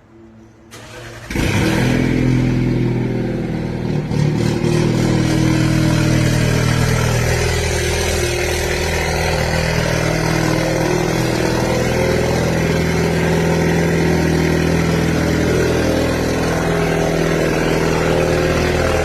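Alfa Romeo Giulia's 2.0 turbocharged four-cylinder, on an aftermarket Trofeo Ultimo+ exhaust and DiCorse downpipe, cold-started: it catches a little over a second in, flares, and settles into a loud, steady fast idle.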